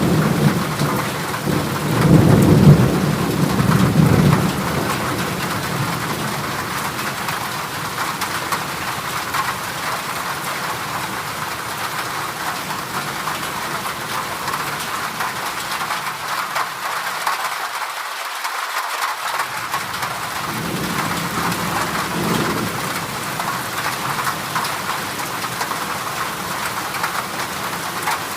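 Heavy rain drumming steadily on a corrugated zinc roof, with low rolls of thunder near the start and again about twenty seconds in.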